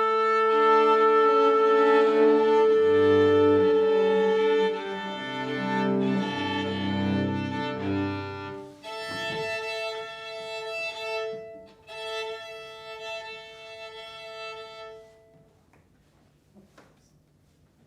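Violin and cello with a small chamber ensemble playing long held notes. The music grows quieter about nine seconds in and dies away about fifteen seconds in.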